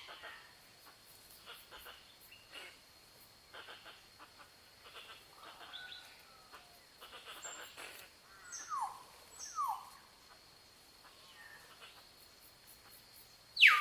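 Assorted wild bird calls and chirps, mostly short and scattered, with two short falling whistles about two-thirds of the way through, over a steady thin high tone.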